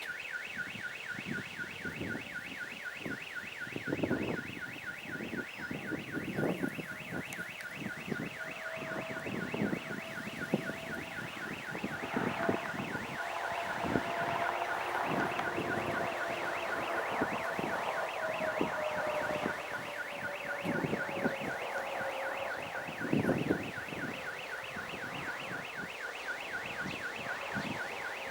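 A fast, even train of high pulsing beeps, several a second, keeps on without a break, much like a car alarm. Under it, wind buffets the microphone in gusts.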